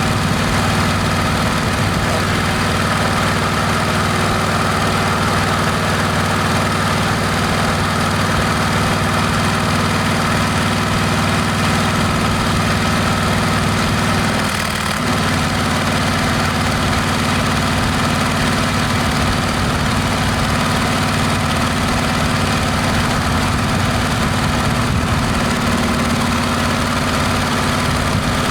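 Harley-Davidson Milwaukee-Eight V-twin running steadily through a Rinehart exhaust, a deep even engine note with a short dip in the sound about halfway through.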